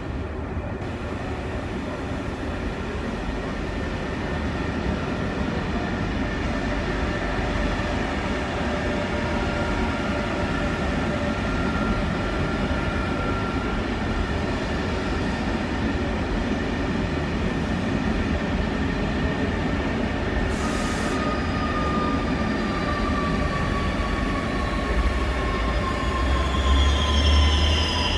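An Italo high-speed electric train running slowly past at close range: a continuous rumble of wheels on rail with a steady electric traction whine. In the last third the whine slowly falls in pitch, and near the end a high wheel squeal and a heavier low rumble come in.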